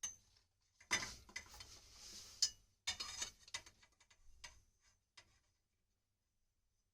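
Irregular small clicks, knocks and short scraping sounds from work on copper water pipe in a cramped space, stopping about five seconds in.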